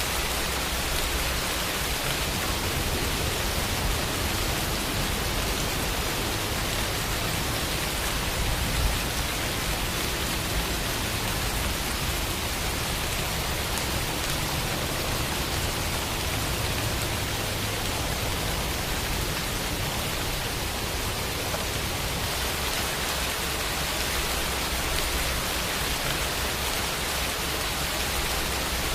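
Steady rain falling, an even hiss of many drops with the odd louder drop standing out.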